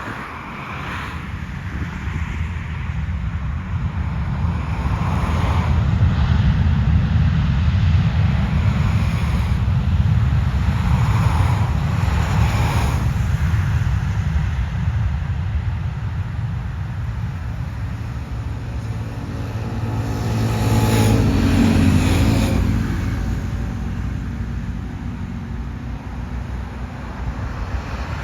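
Airbus A321 jet airliner's engines rumbling deep and steady. The sound builds for the first few seconds, is loudest from about six to fourteen seconds in, and swells again with a falling sweep a little after twenty seconds.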